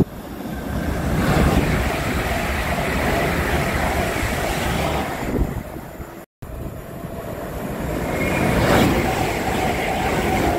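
A train running past the station platform, a steady rumble that swells about a second and a half in. The sound drops out for a moment about six seconds in, then a train rumbles past again, loudest near nine seconds.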